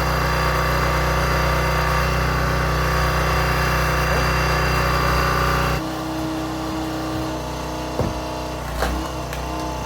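Small gasoline engine of a log splitter running steadily. About six seconds in it cuts abruptly to a quieter, lower hum with a steady tone and a couple of sharp knocks.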